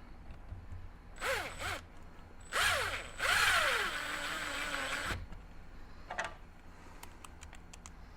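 Small cordless electric screwdriver driving screws in to fix a speaker guard to a door. It runs in short bursts, then in one longer run of about two seconds whose pitch drops and then holds lower as the screw pulls tight.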